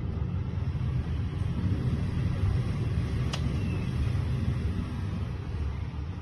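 Strong wind buffeting the microphone, a steady low rumble, with one sharp knock a little past the middle.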